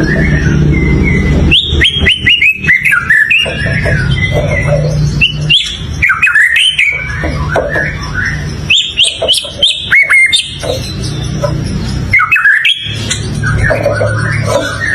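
White-rumped shama singing: loud phrases of quick gliding whistles and rapid notes, four bursts with short pauses between them, over a steady low hum.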